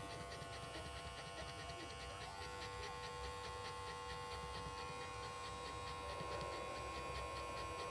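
Electric pet grooming clippers running with a steady hum as they are worked over a young puppy's feet.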